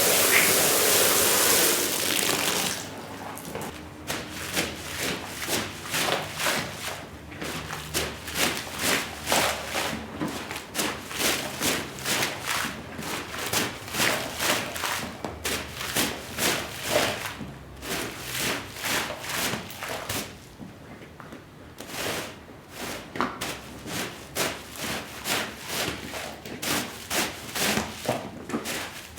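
A rush of spraying water that stops about two and a half seconds in, then a long run of brush strokes on a shag rug's pile, about two a second, pausing briefly about twenty seconds in.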